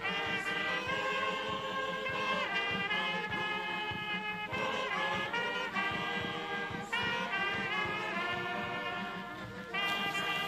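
Brass band playing a slow tune in held chords.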